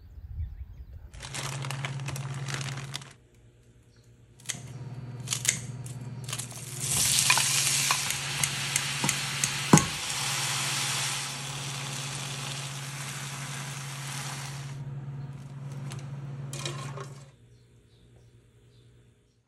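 Fish cake frying in a pan, sizzling in two stretches: a short one early on, then a long one that stops a couple of seconds before the end. Under the sizzle runs a steady low hum, and a few sharp clicks of utensils on the pan come through, the loudest about ten seconds in.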